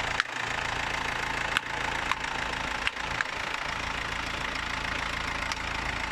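Mercedes Sprinter diesel engine idling steadily, with a few sharp clicks in the first three and a half seconds.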